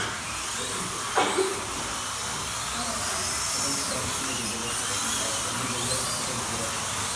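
Slot cars' small electric motors whining around the track, their pitch rising and falling as the cars speed up and slow down, with a sharp knock about a second in.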